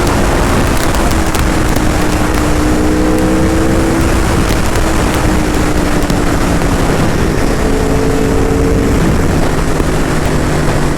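Aprilia RSV4 RF superbike's V4 engine pulling hard at high speed. Its note climbs slowly under a heavy rush of wind on the rider's camera microphone.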